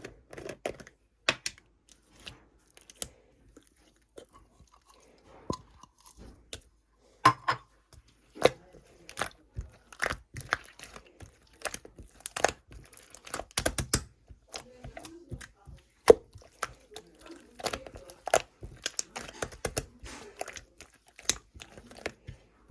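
Slime being squeezed and poked by hand, giving irregular sticky pops and crackling clicks with short quiet gaps in the first few seconds.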